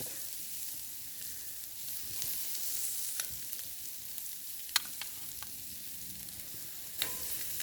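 Chops sizzling on a grill over campfire coals, a steady high hiss, with a few sharp clicks or crackles, the loudest about five seconds in.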